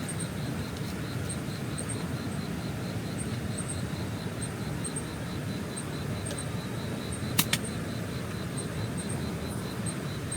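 Night forest ambience: insects chirping steadily about four times a second over the steady rush of a mountain stream. Two sharp clicks sound about seven and a half seconds in.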